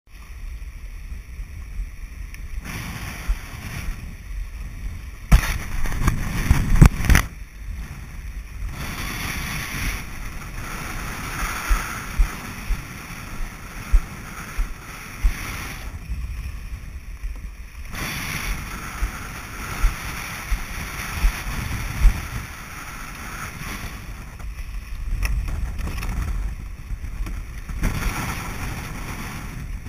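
Wind buffeting the microphone over the wash of surf and water around a kayak in rough, windy sea, gusting loudest about five to seven seconds in, with sharp knocks now and then.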